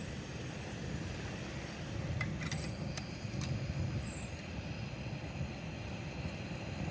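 Campfire crackling, with a few sharp pops about two to three and a half seconds in, over a steady low rumble; a brief high chirp sounds near the middle.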